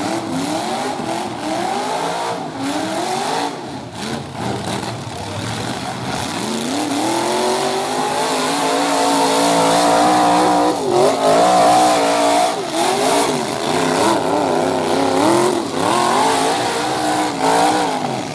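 Modified full-size truck engines revving hard and falling back, over and over. One engine is held at high revs for several seconds about halfway through.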